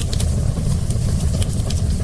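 Wood fire burning in a fireplace: a steady low rumble of flames with a few sharp crackles and pops.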